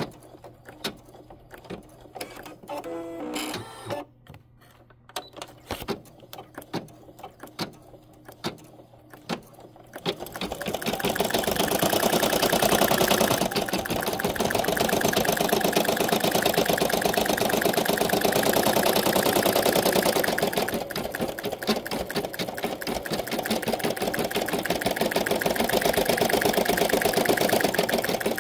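Embroidery machine at work: first a quieter stretch of scattered clicks and a brief stepped whirring tone, then about ten seconds in it breaks into loud, rapid, steady stitching that runs on.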